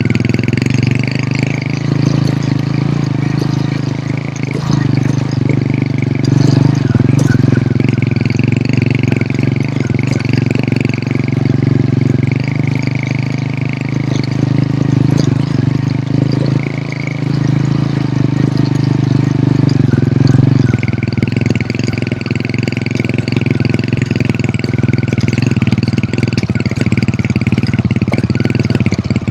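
Hero Honda CD100's single-cylinder four-stroke engine running steadily as the motorcycle is ridden along.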